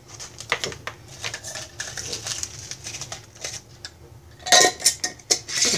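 Light clicks and taps of a measuring spoon as a tablespoon of powdered milk is tipped into a zipper storage bag, with a louder run of clatter near the end.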